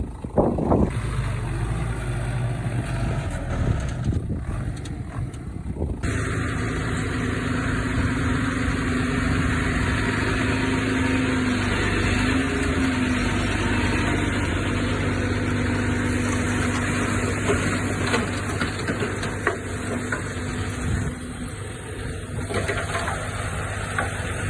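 Heavy diesel earthmoving machinery, a bulldozer and dump trucks, running steadily; the sound changes abruptly about six seconds in, after which a steady engine drone holds with small rises and falls in pitch.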